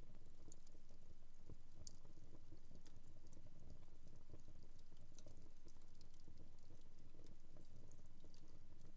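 Fire burning in a fireplace, crackling: faint, irregular small pops and snaps over a low, steady rumble of the flames.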